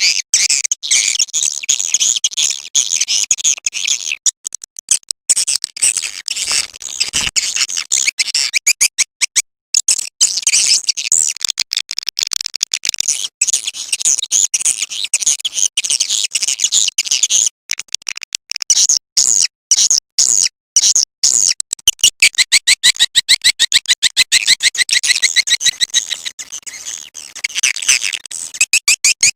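Swiftlet lure call: fast, high-pitched twittering and chittering of swiftlets, strings of rapid chirps broken by brief gaps.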